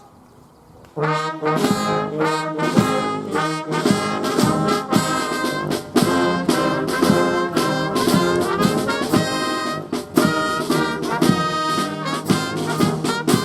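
Brass band playing a short march-like piece, with trombones and trumpets, that starts about a second in and stops just before the end.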